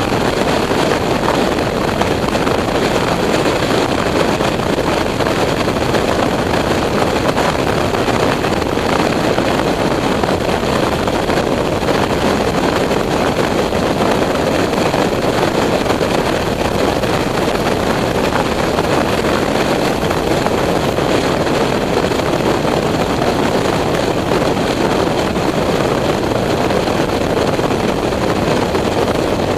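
Steady wind and engine noise from a motorcycle on the move, with wind buffeting the microphone.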